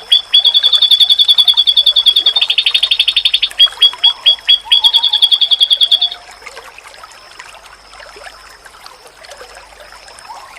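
Pleci (white-eye) bird giving a fast, high trill of about ten notes a second, dipping slightly lower in the middle and briefly breaking into separate notes before stopping about six seconds in. A faint steady high whine runs underneath.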